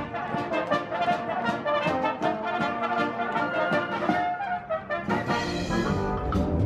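Live brass band, with trumpets and trombones, playing an instrumental passage of an old-time tune with a steady beat.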